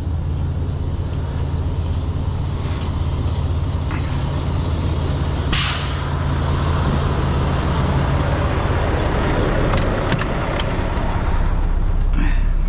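Diesel semi-truck engine idling steadily, with a short sharp hiss of air from the truck's air brakes about five and a half seconds in.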